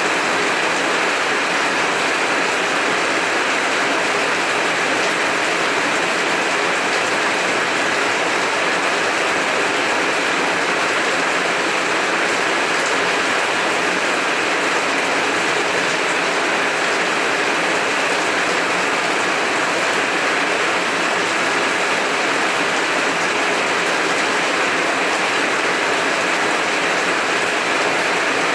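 Heavy rain falling steadily, a dense even hiss with fine spattering of drops.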